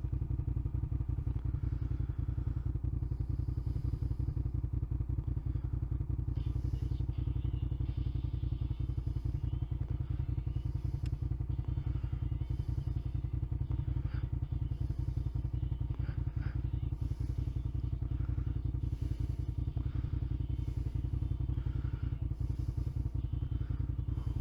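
Motorcycle engine idling steadily while the bike stands stopped.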